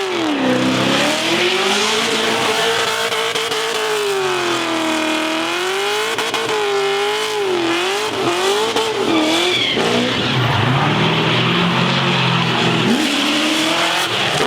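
Car engine revving hard during a burnout, the revs swinging up and down over a steady hiss of spinning, squealing tyres; about ten seconds in the revs drop to a lower, rougher note.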